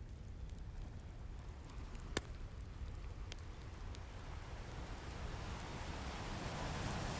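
Wood fire crackling with scattered sharp pops, the loudest about two seconds in, over a steady low rumble of ocean surf. Near the end a wave swells, its hiss rising toward a crash.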